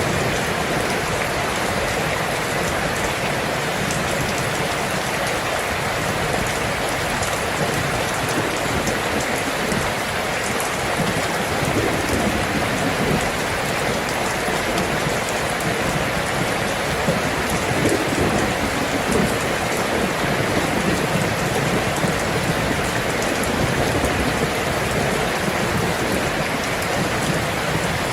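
Steady, heavy rain falling on a surface, a dense even patter of drops.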